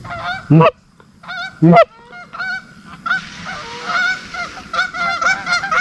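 Geese honking: a few loud single honks in the first two seconds, then a flock calling in many overlapping honks from about three seconds in.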